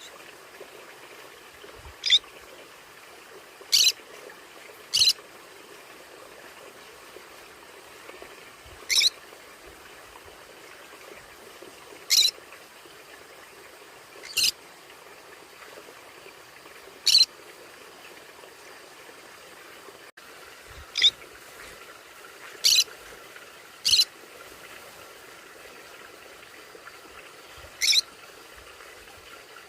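Conure giving short, sharp, high-pitched chirping calls, about eleven single calls at irregular intervals, over a steady background hiss.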